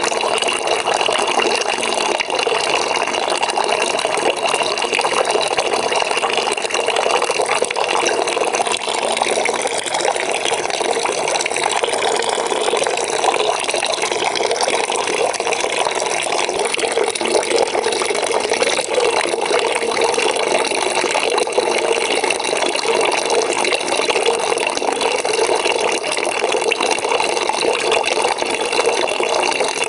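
Water running from a tap into a bucket as it fills, a steady splashing rush with no breaks.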